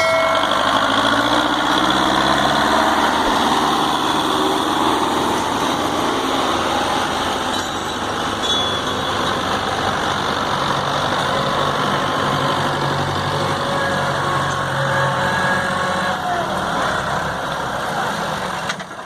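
Belarus tractor's diesel engine running, its pitch falling over the first few seconds and then holding steady.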